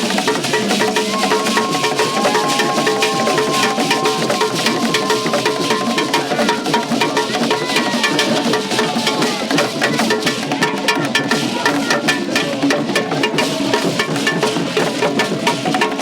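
A traditional drum ensemble playing a fast, dense rhythm, with sharp wood-block-like clicks over the drums. A few held higher notes ride over it in the first several seconds.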